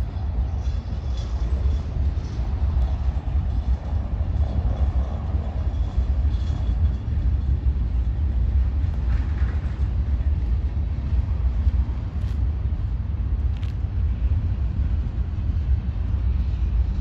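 Freight train cars rolling past at close range, a steady heavy rumble of wheels on rail, with faint brief squeals from the wheels now and then.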